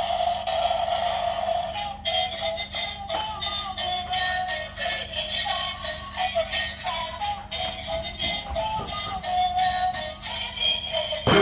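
Electronic music with a synthesized, toy-like singing voice: a tune of short, stepping high notes over a steady low hum.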